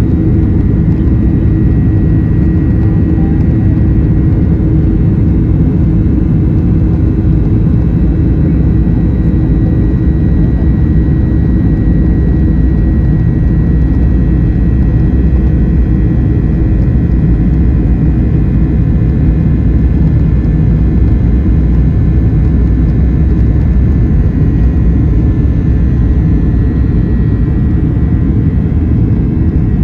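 Cabin noise of a Boeing 737-800 with CFM56-7B engines at climb thrust just after takeoff: a loud, steady roar with a faint high whine above it that fades in the second half.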